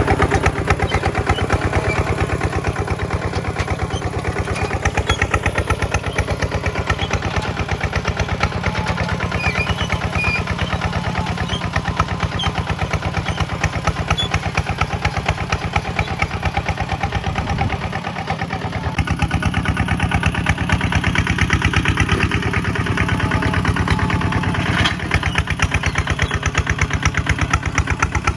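Kubota single-cylinder diesel engine (ZT155/RT180 type) running with a rapid, even chug. The level dips briefly about eighteen seconds in, then the running resumes with a slightly different note.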